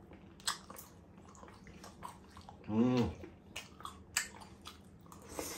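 Close-miked eating sounds of a mukbang meal of steak and mashed potato: wet chewing and sharp mouth and fork clicks, with a short hummed 'mmm' about three seconds in.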